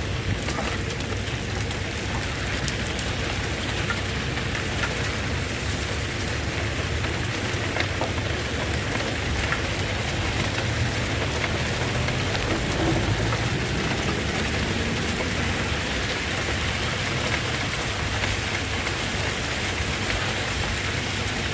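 Steady rain falling, with the low rumble of an engine underneath.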